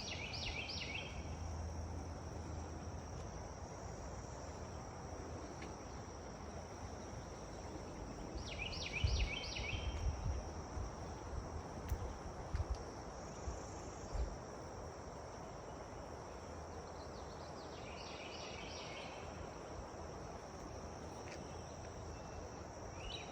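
Steady high-pitched insect drone, like crickets, over a constant hiss of outdoor air. About every nine seconds a short, rapid chattering call of several quick notes cuts in, lasting about a second.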